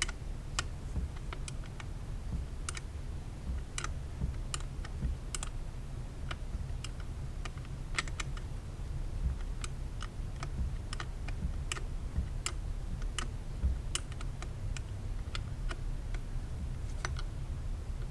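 Scattered sharp metallic clicks, several a second, from a hand tool working the coil-pack mounting bolts, over a low steady hum.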